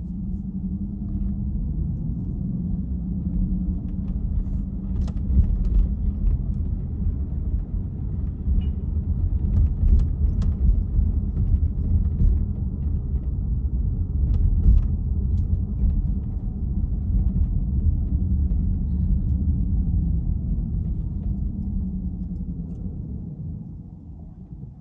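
Low rumble of a car driving, its engine and tyre noise swelling over the first few seconds and dying away near the end, with a few faint clicks.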